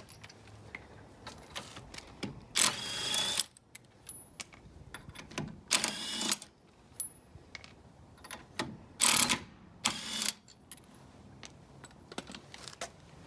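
Aerosol spray can spraying in four short hissing bursts, the second one longest, with small clicks between them.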